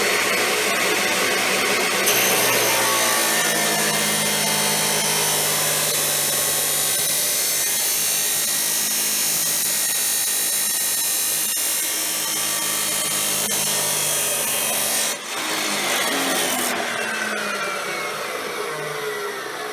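Abrasive-wheel chop saw grinding through steel for about 13 seconds, a high grinding whine under load. The cut ends about 15 seconds in, and the motor winds down with a falling whine near the end.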